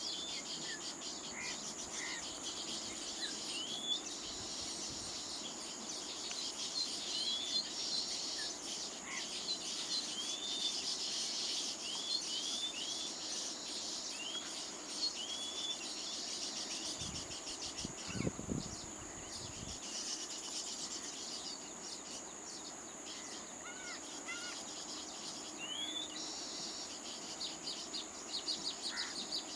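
Baya weavers chattering at their nests, with dense fast twittering and many short rising-and-falling chirps, over a steady high-pitched insect drone. A brief low rumble comes about two-thirds of the way through.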